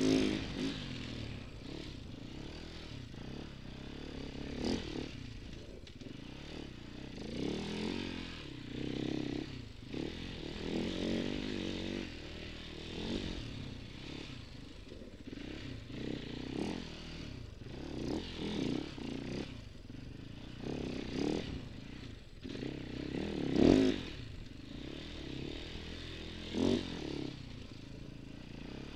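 Enduro motorcycle engine revving up and down over and over as the rider accelerates, shifts and brakes along a twisty dirt trail. It is heard from a camera mounted on the bike, and the loudest rev comes about four-fifths of the way through.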